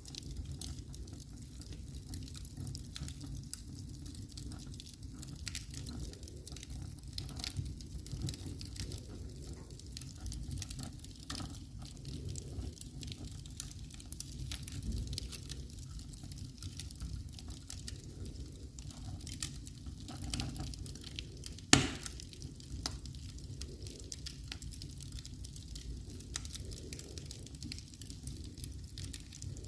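Wood fire burning in a fireplace: a steady low rumble of the flames with scattered crackles and pops, and one loud pop about 22 seconds in.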